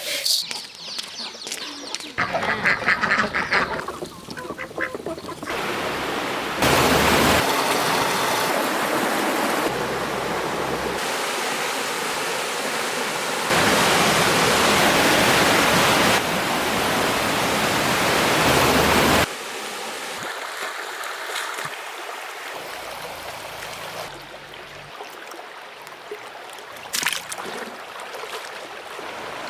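Ducks quacking in short calls for the first few seconds, then rushing water, an even loud hiss that starts and stops abruptly several times before dropping to a quieter flow.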